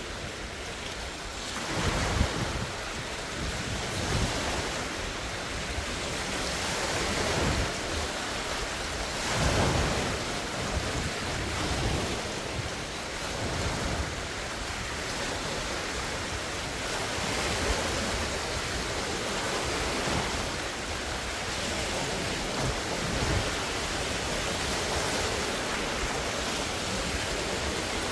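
Large wind-driven lake waves breaking and splashing on the shore in surges every few seconds, over steady rushing wind with gusts buffeting the microphone.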